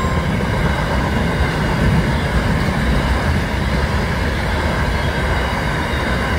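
Aurizon grain train's hopper wagons rolling past at speed, a steady rumble of wheels on rail.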